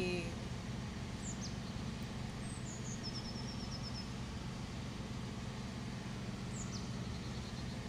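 A songbird sings two phrases, each a falling high whistle followed by a quick run of short repeated notes, over a steady low background hum.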